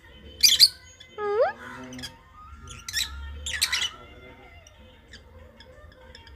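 Peach-faced lovebird giving short, shrill squawking chirps, loudest in a pair about half a second in and again twice around three seconds in.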